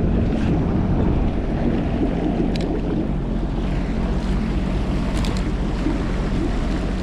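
Sea-Doo jet ski engine running steadily, with wind buffeting the microphone and water sloshing around the hull.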